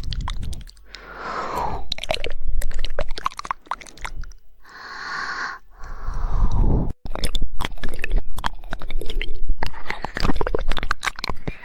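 Close-miked ASMR mouth sounds: wet tongue clicks and smacks in dense runs, the 'woodpecker' style of rapid tongue flicking, fastest in the last few seconds. A breathy hiss comes about five seconds in.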